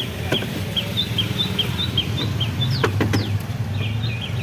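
A small bird chirping rapidly, about four to five short high chirps a second, with a brief pause and two sharp falling calls near the middle, over a steady low machine hum.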